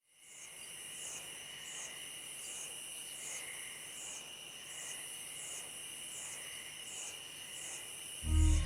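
Chorus of insects such as crickets: a steady high trill with a chirp repeating about every three-quarters of a second. Near the end a short, loud low boom.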